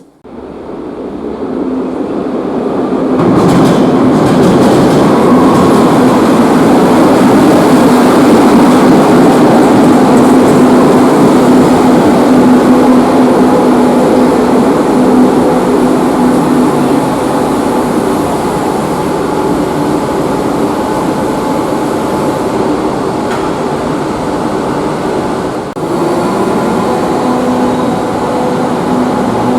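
Madrid Metro line 5 train running, a loud steady rumble with a low hum under it. It starts abruptly, builds over the first few seconds and dips briefly about 26 seconds in.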